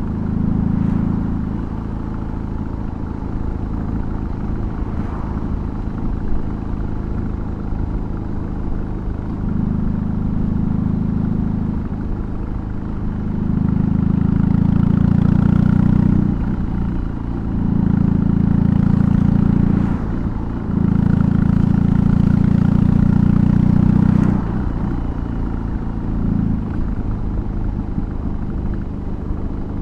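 BMW R18's 1802 cc boxer twin running through a custom exhaust while riding, heard from the rider's position. Around the middle it pulls harder under throttle in several louder stretches, each broken by a short dip.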